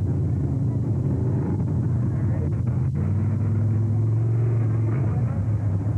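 Race car engine running on the drag strip, a steady low rumble that wavers and briefly drops away about a second in and again around three seconds.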